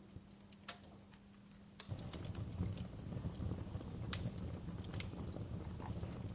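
Wood fire crackling in a fireplace: a few sparse pops at first, then about two seconds in a low rumble of flames comes up with frequent crackles and snaps, the sharpest pop a little after four seconds.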